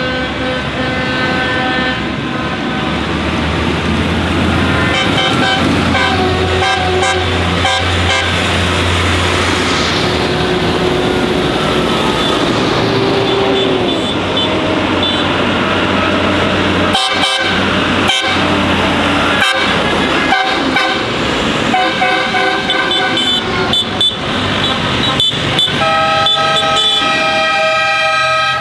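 Lorry horns sounding over and over, several at different pitches overlapping, above the running engines and tyre noise of passing trucks. A deep engine drone is strong in the first third.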